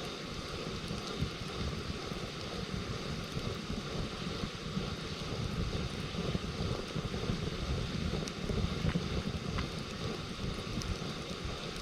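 Campfire burning, with a few faint crackling pops in the second half, over a steady low rumble of wind on the microphone.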